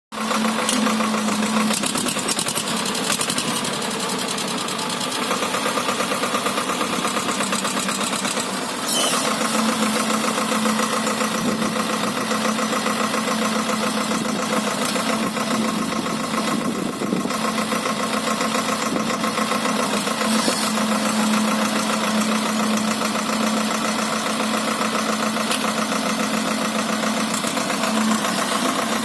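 Swaraj 724 tractor's diesel engine running steadily with a fast, even firing rhythm, its hum holding nearly constant pitch throughout.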